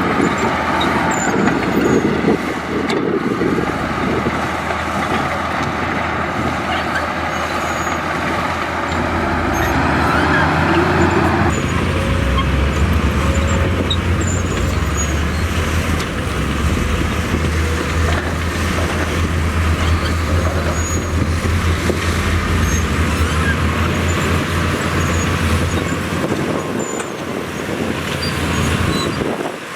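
Diesel engine of heavy earthmoving machinery running under load with a steady low drone; the sound changes abruptly about a third of the way in.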